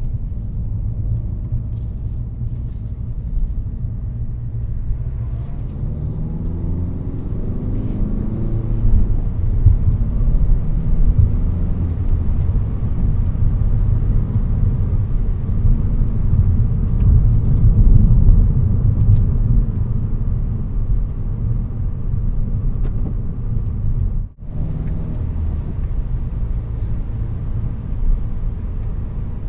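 2018 Peugeot 308's 1.6 BlueHDi 120 four-cylinder turbodiesel and road noise while driving: a low rumble, with the engine note rising as the car accelerates a few seconds in, then settling into steady cruising. The sound drops out for an instant about three-quarters of the way through.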